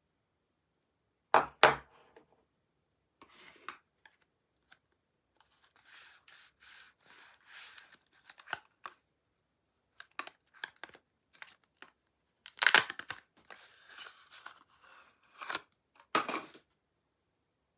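Soap packaging being torn open and crinkled by hand. There are two sharp rips about a second and a half in, then scattered soft crinkling and small clicks, with louder tearing about two-thirds of the way through and again just before the end.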